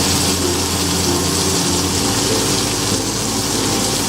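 Chicken sizzling in a hot frying pan: a steady hiss.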